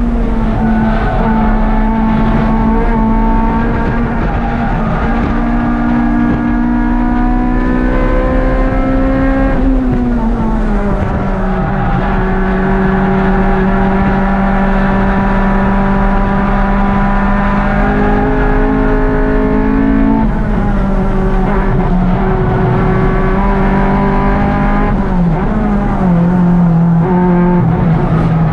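Race-prepped Honda Civic's swapped K24 four-cylinder engine running hard at high revs, heard from inside the cabin. The engine note holds high and steady, then steps and dips in pitch several times, with longer drops about a third and about two-thirds of the way through.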